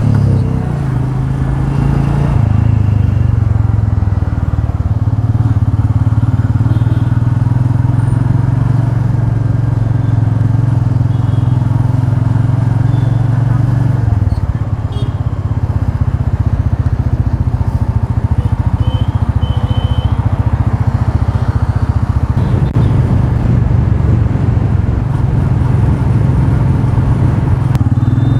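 Royal Enfield Meteor 350's single-cylinder engine running under way as the motorcycle is ridden. The steady engine note eases off about halfway through and builds again later.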